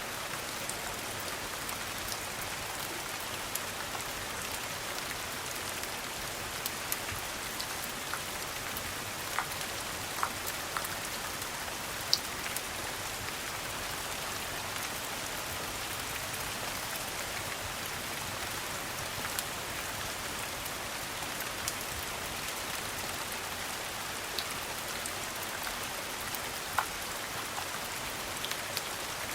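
Steady rain falling on a hard surface, an even hiss with scattered small sharp ticks and pops.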